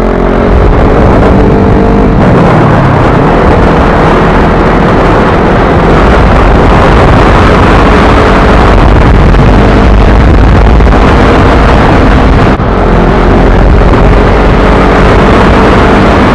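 Heavy wind buffeting on the microphone while riding a Yamaha R15 motorcycle, very loud and continuous, with the engine's steady note faintly underneath.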